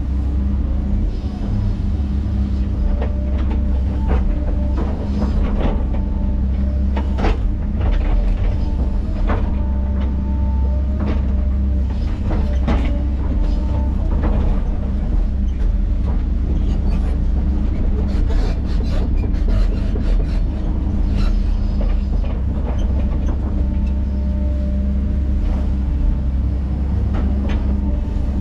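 Crawler dozer's diesel engine running steadily under load while cutting back a pond dam slope, with frequent metallic clanks and brief squeaks from the steel tracks and blade.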